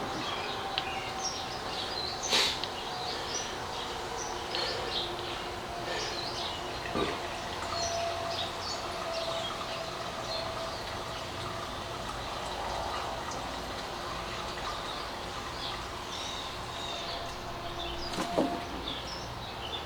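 Gasoline running out of a BMW motorcycle's fuel tank in a steady stream and splashing onto the floor, with birds chirping and a couple of brief knocks.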